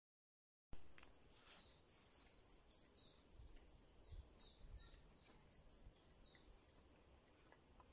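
Faint bird song starting about a second in: a run of about a dozen short, high notes repeated two or three times a second.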